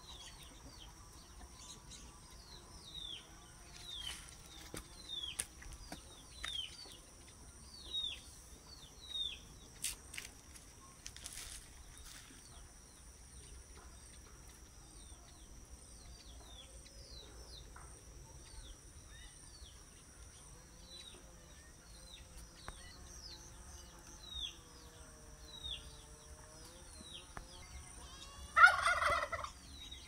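Small songbird giving short falling chirps, often in pairs, about once a second, over a steady high insect drone. Near the end a domestic turkey gobbles loudly once.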